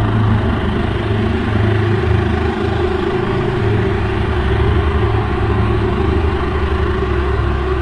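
A loud, continuous low rumbling drone whose deep hum wavers in strength, with a steadier higher hum above it.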